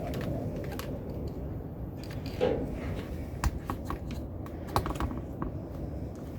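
Irregular light clicks and taps of small tools and parts handled on a workbench, over a steady low rumble of strong wind outside.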